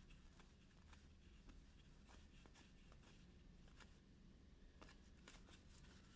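Near silence: room tone with a few faint, scattered ticks of trading cards being handled.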